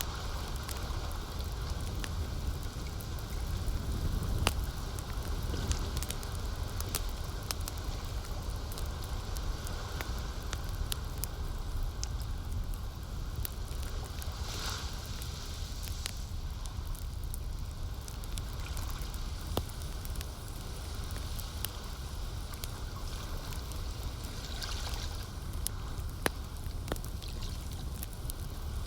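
Campfire crackling, with scattered sharp pops over a steady low rumble and brief hissing swells about halfway through and again near the end. Soft lake water is mixed in beneath.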